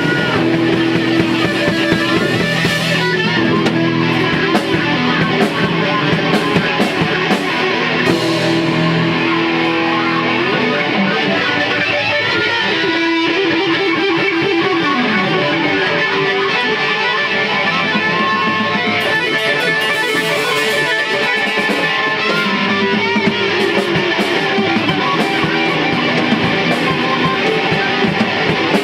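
Rock band playing loudly: electric guitar with sustained and sliding notes over drums and cymbals.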